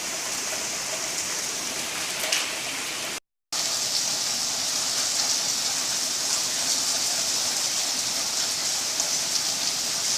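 Hail storm: hailstones and heavy rain pelting steadily on roofs and pavement, a dense, even patter of small impacts. The sound cuts out completely for a moment just over three seconds in, then resumes a little louder.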